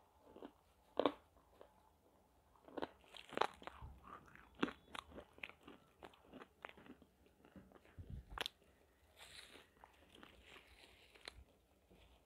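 A person biting into and chewing roasted nakumat, baked pieces of edible clay, with irregular sharp crunches; the loudest comes about a second in.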